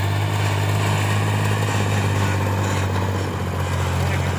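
Tractor engine running steadily under throttle, a strong, deep, even drone.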